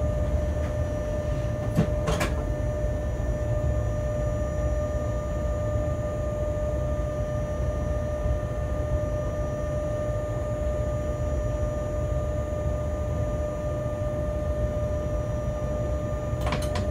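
Freight locomotive's cab noise while rolling slowly: a steady low rumble with a constant whine on top. Two short sharp clicks, about two seconds in and near the end.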